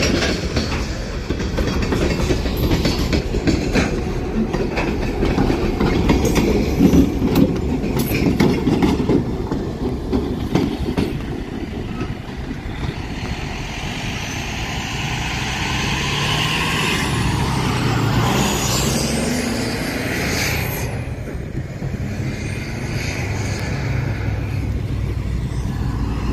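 Freight train of covered hopper cars rolling past, wheels clicking over the rail joints. About halfway through, the steady running of a diesel locomotive's engine comes in, with a high whine that rises and then falls.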